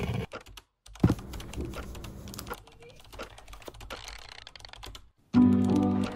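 Rapid clicking of typing on a keyboard, in short bursts broken by brief cuts to silence. Music with a steady melody starts near the end.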